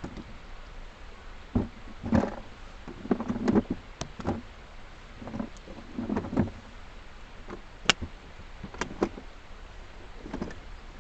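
Irregular knocks and clunks of things being handled and set down, with one sharp click about eight seconds in.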